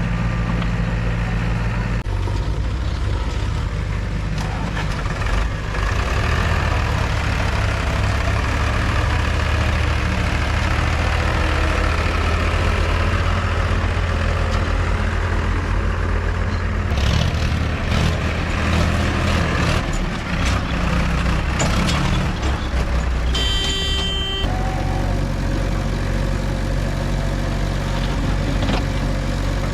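JCB 3DX backhoe loader's diesel engine running under changing load as the machine works, its pitch shifting several times, with knocks and clanks in the second half. A short horn-like tone sounds for about a second about three-quarters of the way through.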